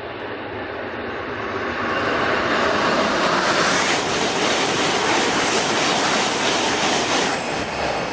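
Shinkansen bullet train passing at speed: a rushing noise builds over the first two seconds and stays loud for about five seconds. About seven seconds in, the hiss cuts off sharply as the end of the train goes by, and the sound then fades.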